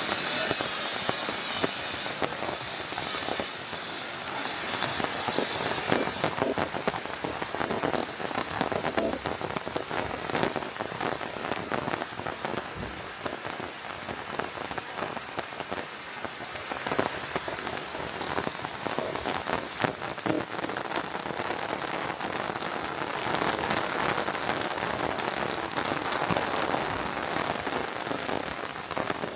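Steady rain falling, a dense hiss packed with many small individual drop impacts.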